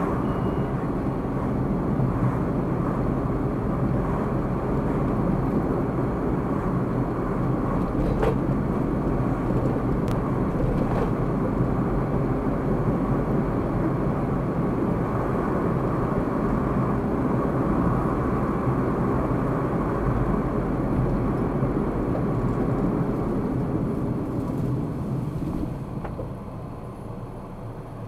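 Steady road and engine noise of a car driving, picked up by a dashcam, dropping off over the last few seconds.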